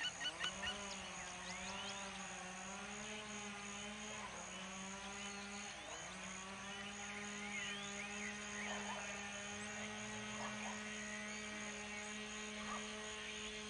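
Birds chirping in short calls and rising whistles over a steady low droning hum with many overtones. The hum's pitch dips briefly twice. A few honking calls, like geese, come right at the start.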